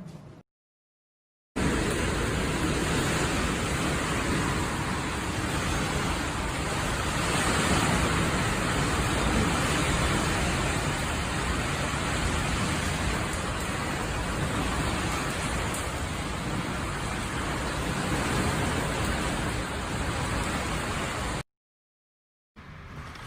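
Typhoon wind and heavy rain: a loud, steady rushing noise that swells a little midway. It starts abruptly about a second and a half in and cuts off suddenly about two seconds before the end.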